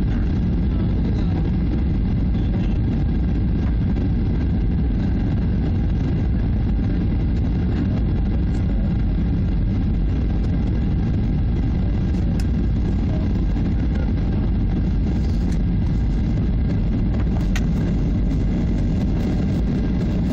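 Steady low rumble of a Boeing 737-800's CFM56 turbofan engines and airflow, heard from inside the passenger cabin. A few faint ticks stand out near the middle and later.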